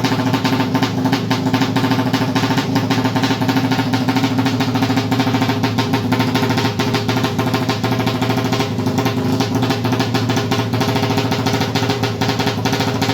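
Suzuki Satria FU 200cc drag bike's single-cylinder engine running through a Creampie CP3 racing exhaust, held at a steady speed with a loud, rapid pulsing note that does not rise or fall.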